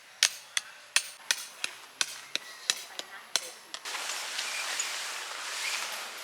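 Tent pegs being hammered into the ground, about three sharp strikes a second, stopping a little before four seconds in. A steady rushing noise follows.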